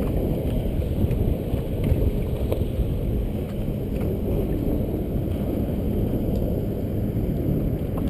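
Wind rumbling steadily on the microphone from a canoe out on choppy lake water, with a few faint ticks.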